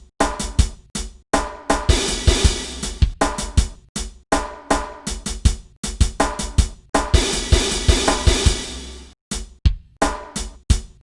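Drum kit playing a hip-hop groove: kick drum, snare and hi-hat in a steady pattern, with a cymbal ringing out about two seconds in and again about seven seconds in.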